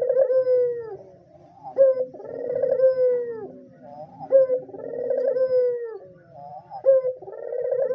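White Barbary dove cooing over and over: each call starts with a sharp note and runs into a long rolling coo that slides slowly down in pitch, repeating about every two and a half seconds.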